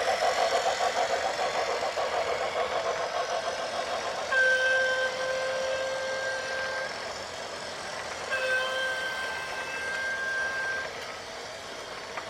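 Two long, steady vehicle horn blasts, the first starting about four seconds in and the second about four seconds later, each lasting two to three seconds. Before them, a rapidly pulsing pitched sound.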